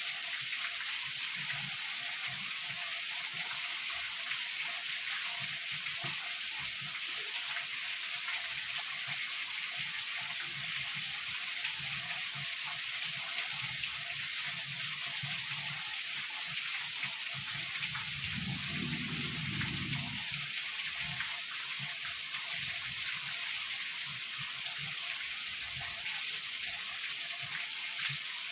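Steady heavy rain, an even hiss of falling water, with a brief low rumble of distant thunder about two-thirds of the way through.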